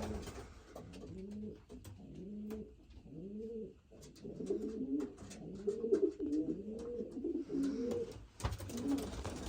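Racing pigeon cocks cooing, several birds overlapping in repeated low coos that rise and fall, with a few faint clicks between them. These are cocks that have each taken a nest box, cooing over it in the run-up to breeding.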